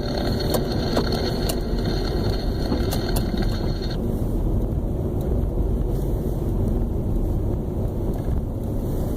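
Steady rumble of road and engine noise inside a moving vehicle. A radio's hiss and a few clicks sound over it for the first four seconds, then cut off suddenly.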